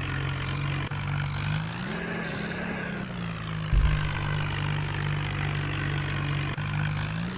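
Swaraj 855 tractor's three-cylinder diesel engine running, its note rising twice as it is revved up, about two seconds in and again near the end. There is a loud low thud about four seconds in.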